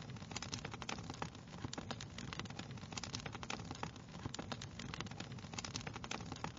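Wood fire crackling: a dense, irregular run of small sharp pops and snaps over a steady low rumble of the flames.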